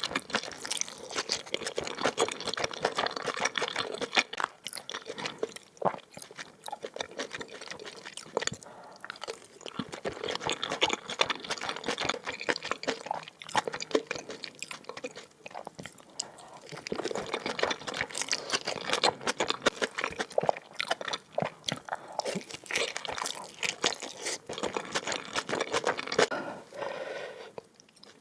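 Close-miked chewing of kimchi mandu dumplings in spicy oil: a dense, irregular run of wet smacks and crunches, with a couple of brief pauses.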